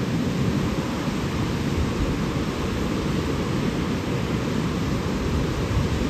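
Rushing water: a steady, deep rush of noise with no breaks.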